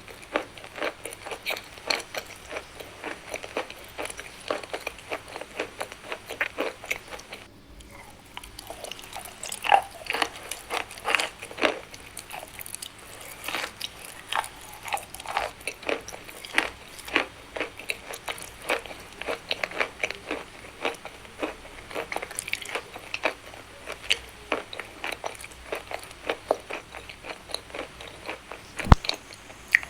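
A person biting and chewing chalk close to the microphone: a steady stream of sharp, irregular crunches, with a short pause about eight seconds in.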